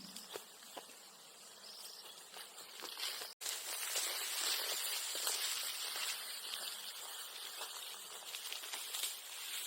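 Outdoor ambience: a steady high hiss like insects buzzing, with scattered light ticks and crackles. The sound drops out for an instant about three and a half seconds in, then comes back louder.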